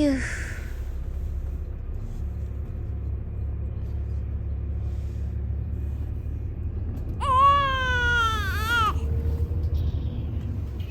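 Steady low rumble of a car driving, heard inside the cabin. About seven seconds in, a person lets out a long, high, wavering whine lasting about two seconds.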